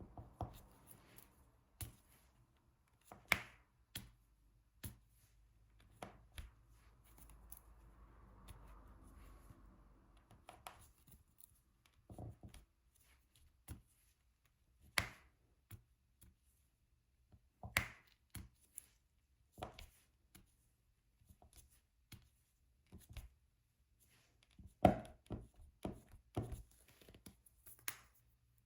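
Irregular light taps and clicks of a diamond painting pen picking up drills and pressing them onto the sticky canvas. A soft rustle comes about a third of the way in.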